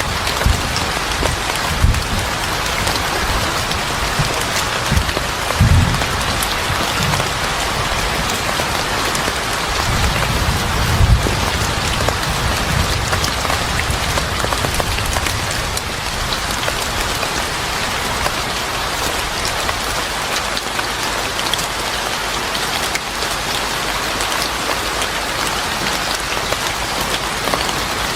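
Steady, heavy rain falling on a surface, with irregular low rumbles underneath during the first twelve seconds or so that then die away.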